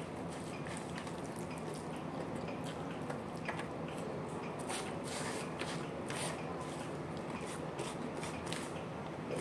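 Close-up chewing of a mouthful of rice, with irregular soft wet mouth clicks and smacks over a steady low background hum.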